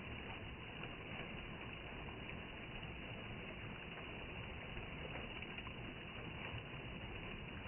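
Stream water running steadily, an even rushing hiss with no change.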